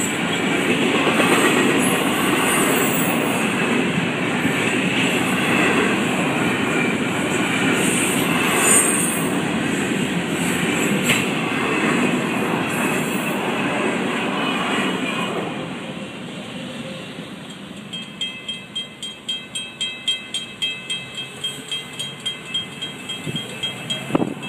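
Freight train's container cars rolling past, a loud steady rumble of wheels on rails with an occasional clank. About 16 seconds in the train clears and the noise drops. A grade-crossing warning bell then rings about twice a second.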